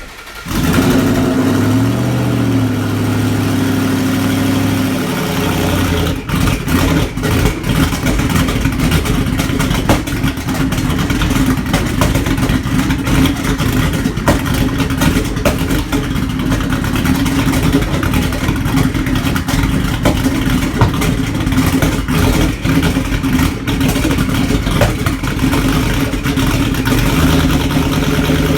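Cold start of a twin-turbo 2013 Ford Mustang GT's 5.0 V8: it fires at once and holds a raised cold idle, with small rises in pitch, for about five seconds. Then it drops to a lower, uneven, choppy idle that runs on.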